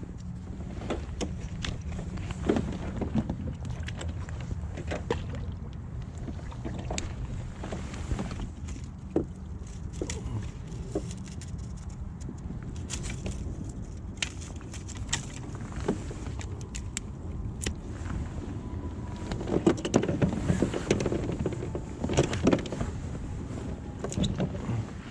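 Steady low rumble of outdoor creek ambience, with many scattered clicks and knocks of close handling noise and a busier run of knocks about twenty seconds in.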